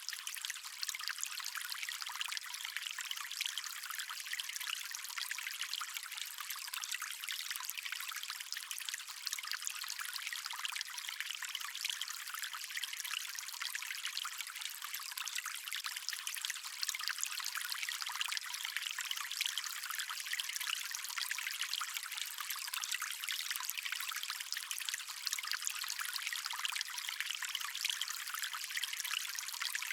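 A water stream flowing steadily: an even, unbroken rush with a thin, bright sound and no low rumble.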